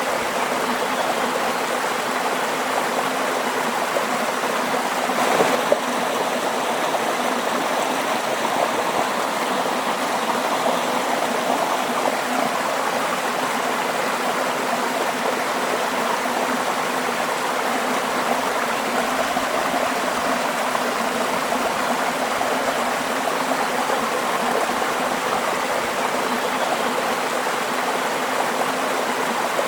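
Waterfall: water falling and rushing steadily, with one brief louder splash about five seconds in.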